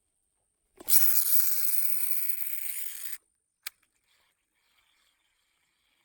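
Line paying out from a baitcasting reel during a cast, a sudden loud hissing whir that starts about a second in, fades slowly and stops abruptly after about two seconds, followed by a single sharp click.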